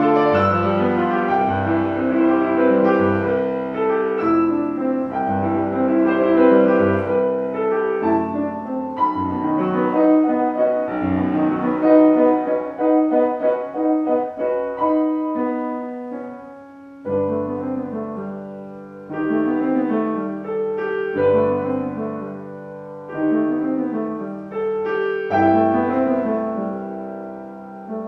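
Classical piano music: flowing chords and running figures over repeated bass notes, easing into quieter, sparser phrases around the middle.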